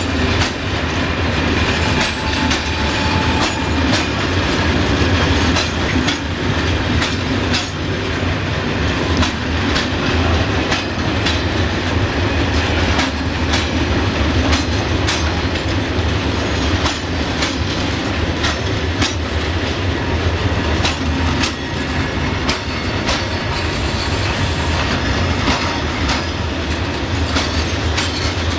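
Freight train of covered hopper wagons rolling past close by: a steady low rumble with the wheels clacking irregularly over rail joints. A brief high wheel squeal comes near the end.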